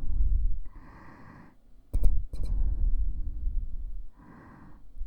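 Hands rubbing and scratching directly on the ear microphone of a KU100 binaural dummy head: deep rumbling strokes, the middle one opening with a couple of sharp clicks, broken by short quieter pauses.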